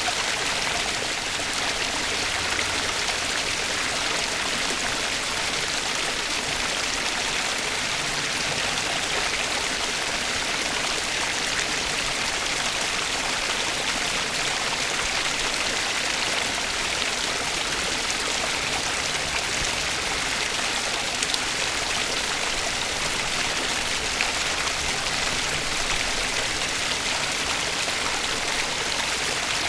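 Running water of a natural stream, a steady rushing hiss that holds even throughout.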